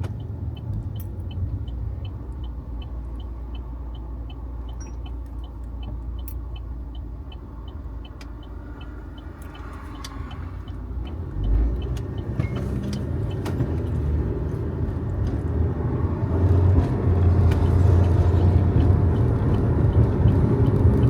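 Inside a car on the move: a turn signal ticking about two times a second for roughly the first half, then stopping, over steady engine and road noise. A low thump comes about halfway through, after which the engine and road noise grow louder as the car picks up speed.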